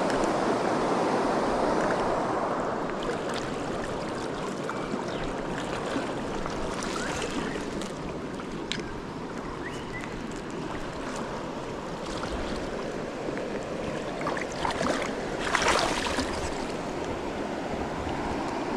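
River water running steadily, with a few short splashes; the loudest comes about three-quarters of the way through.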